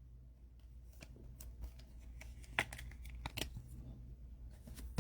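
Faint handling of Topps Cosmic Chrome baseball cards being flipped through by hand: soft slides and rustles with a few light clicks.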